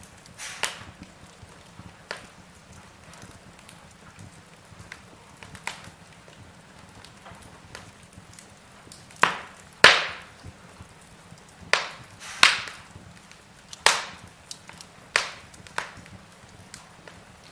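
Wood fire crackling in a fireplace: logs burning with irregular sharp pops and snaps over a soft steady hiss, the loudest pops coming in a cluster in the second half.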